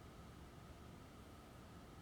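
Casablanca Avalon ceiling fan running steadily and very faintly: a low, even whir with a faint steady hum.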